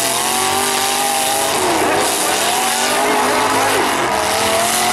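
Demolition derby truck engines revving hard under load, their pitch dipping sharply and climbing back twice, over a steady noisy rush.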